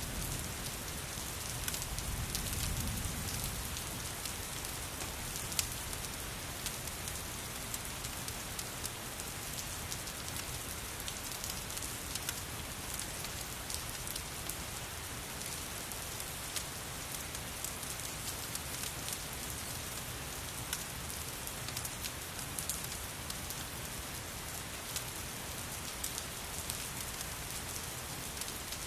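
Steady rain falling, with scattered sharp crackles and pops of a wood fire over it. A brief low rumble swells and fades about two seconds in.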